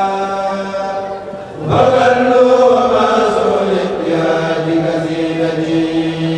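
A kourel chanting a Mouride khassaid in unison, unaccompanied, on long held notes. The chant breaks off briefly about a second and a half in, then the next phrase begins.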